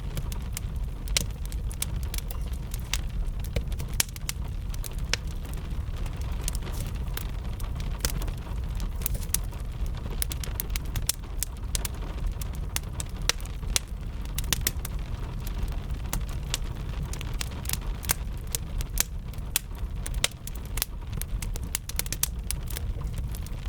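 Wood fire crackling with frequent sharp, irregular pops over a steady low rumble of rain.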